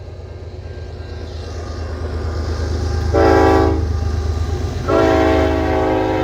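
Approaching CN train with a low rumble that grows louder, and its multi-chime air horn, which the railfan takes for a Nathan K5HL. The horn gives a short blast about three seconds in, then a long blast starting about five seconds in.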